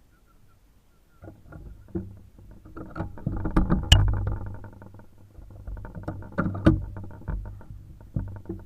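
Gusting wind buffeting the microphone: a rough, crackling low rumble that swells and fades in gusts, with two sharper knocks about four and seven seconds in.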